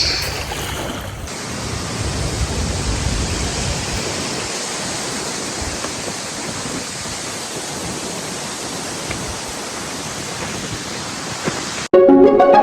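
Steady outdoor rushing noise with a low rumble that fades after the first few seconds. String music cuts in abruptly near the end.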